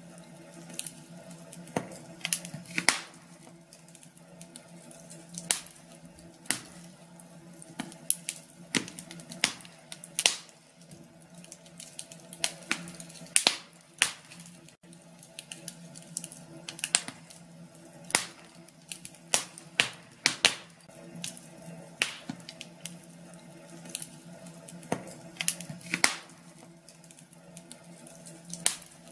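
Fire in a fireplace crackling: irregular sharp pops and snaps, several a second and some much louder than others, over a low steady hum.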